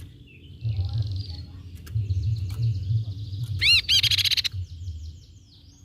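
Grey-cheeked tit-babbler calling in a string of high chattering notes, with a loud burst of fast, repeated arching notes a little past the middle, over a low rumble.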